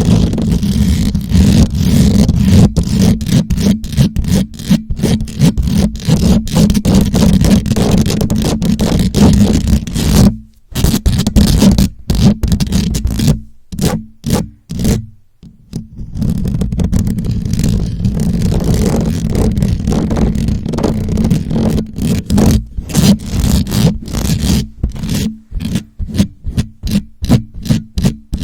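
Close-up scratching and rubbing directly on a microphone, a loud rough scraping with heavy low rumble. It stops briefly twice in the middle, then goes on as quicker separate strokes toward the end.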